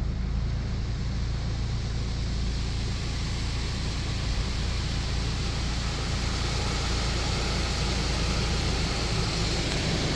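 Steady rushing noise of car wash tunnel machinery over a constant low rumble, with the hiss growing a little brighter in the second half as the dryer section comes up.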